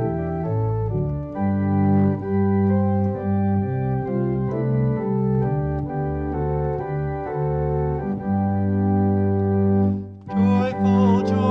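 Organ playing slow, sustained chords that change about once a second. About ten seconds in it stops briefly and a different piece of music begins.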